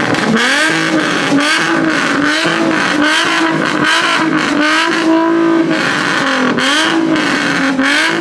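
A muscle-car engine being revved hard over and over, its pitch climbing and dropping about once a second.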